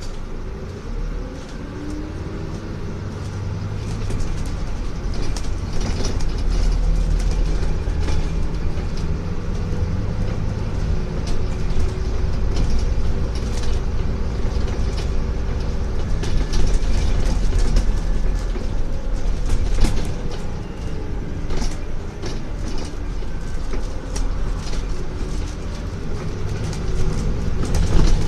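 Inside a Scania N250UD Enviro400MMC double-decker bus on the move: a low engine and road rumble, with a drivetrain whine that rises and falls in pitch as the bus speeds up and slows. Frequent rattles and clicks come from the bodywork and fittings.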